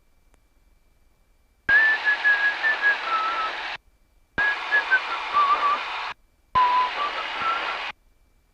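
Aircraft VHF radio over the cockpit headset: three short received transmissions, each a burst of static-laden noise with a wavering whistle and no intelligible words, switching on and off abruptly as the squelch opens and closes.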